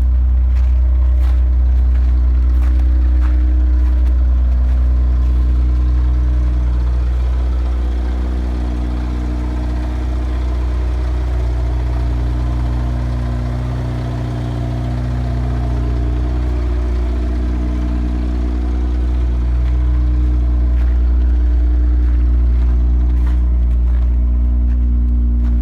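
Honda Accord engine idling steadily, a little quieter about halfway through.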